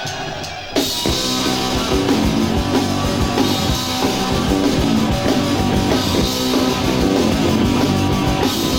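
Punk rock band playing live, starting with a sudden full-band entry about a second in: distorted electric guitars, bass and drum kit playing an instrumental intro.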